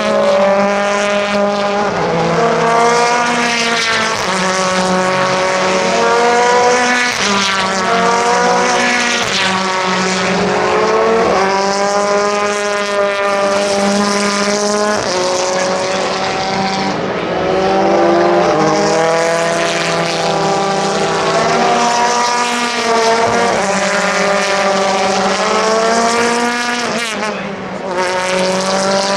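Racing cars' engines at full throttle on a circuit, several cars at once, each note climbing through the revs and dropping back at gear changes and lifts, over and over.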